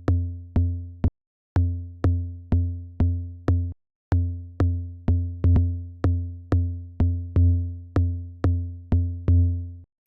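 Electronic kick drum repeating on its own about twice a second, each hit a deep thump with a short pitched ring. The pattern stops and restarts twice, as if playback is being started and stopped.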